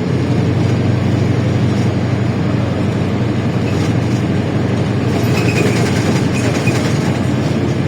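LiAZ-677M bus under way, heard from inside the cabin: its ZIL V8 petrol engine runs steadily under road and body noise. Light rattling and clicking come in about five seconds in.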